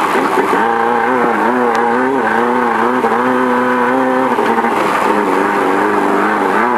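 Off-road race car engine heard from inside the car, its revs rising and falling over and over as the throttle is worked.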